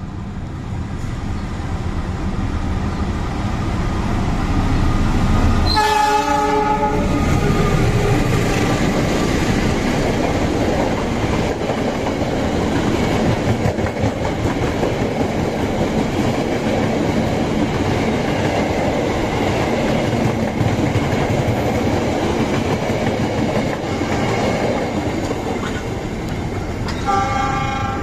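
Passenger train running on the rails, heard from an open coach doorway: continuous wheel and rail noise while another train passes on the next track. A train horn sounds briefly about six seconds in and again near the end.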